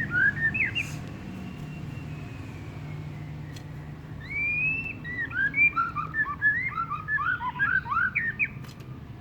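White-rumped shama (murai batu) singing: a few chirps, then from about four seconds in a long rising whistle breaking into a fast run of short chirping notes. A steady low hum runs underneath.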